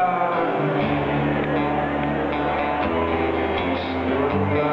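Live rock song in an instrumental passage between sung lines, led by guitar, with low bass notes coming in about a second in.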